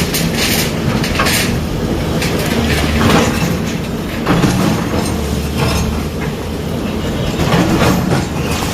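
Heavy demolition machinery running with a steady low engine hum, with irregular metallic clanks and knocks over it.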